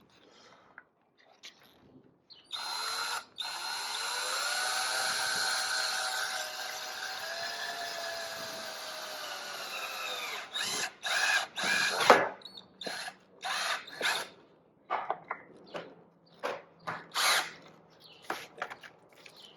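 Cordless drill driving a wood screw into lumber: one long run of about eight seconds, its pitch dropping as the screw bites in, then a string of short trigger bursts seating the screw.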